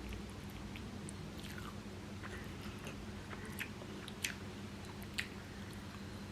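Close-miked mouth sounds of a person chewing soft idiyappam (string hoppers) with vegetable korma, with scattered sharp mouth clicks, the loudest a little after four seconds and about five seconds in, over a steady low hum.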